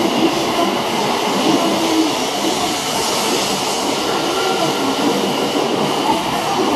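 E7 series Shinkansen train pulling out of the station and gathering speed, its cars rolling past close by with a steady rushing running noise.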